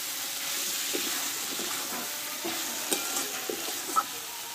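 Ash gourd and fish-head curry sizzling in a metal wok, its water nearly cooked off, while a flat metal spatula stirs and scrapes through it in short strokes. About four seconds in the spatula gives a sharper knock on the pan.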